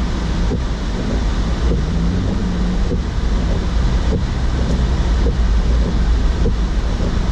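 Steady low rumble of tyre and road noise inside the cabin of a 2016 Mazda CX-9 driving on snow. A faint regular beat about every second and a quarter comes from the windshield wipers running on high.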